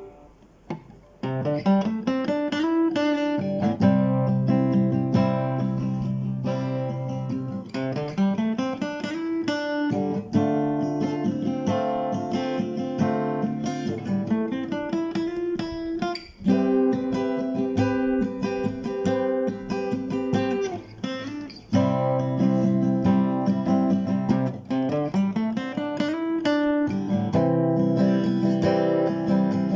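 Background music: acoustic guitar playing plucked and strummed notes, briefly dipping about a second in before carrying on, with repeated upward slides in the low notes.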